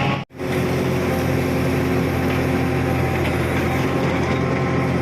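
Backhoe loader's diesel engine running steadily at a constant speed. The sound drops out completely for a moment about a quarter second in, then carries on unchanged.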